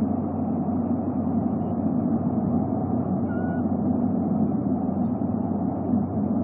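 Steady low rumbling background noise with a constant low hum, picked up by the nest camera's outdoor microphone. A faint, brief high whistle comes about three seconds in.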